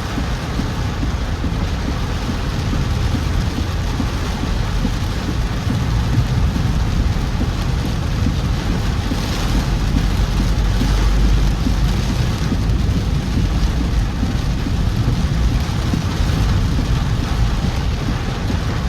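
Heavy monsoon rain, a steady hiss over a deep low rumble that swells about halfway through.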